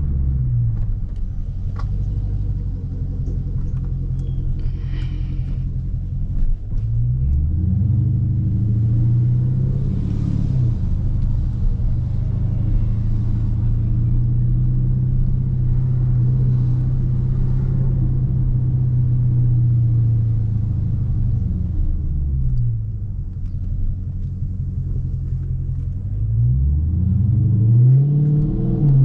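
Dodge Charger Scat Pack's 6.4-litre HEMI V8 exhaust, loud, while driving: the engine note falls at the start, rises under acceleration about seven seconds in, holds steady at cruise for a long stretch, drops off just past twenty seconds, then climbs again near the end.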